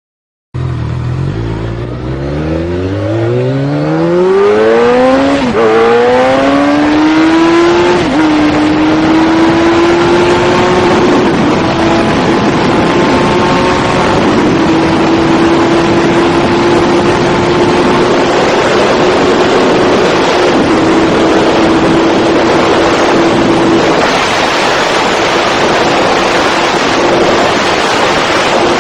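High-revving superbike engine at full throttle, climbing steeply in pitch through the gears with upshifts about five and eight seconds in. It then holds a steady high pitch near top speed over loud rushing wind noise, and cuts off abruptly at the end.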